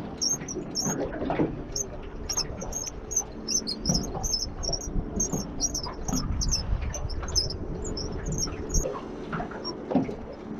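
Small birds chirping, short high notes repeated a few times a second, over a low rumble that swells around the middle.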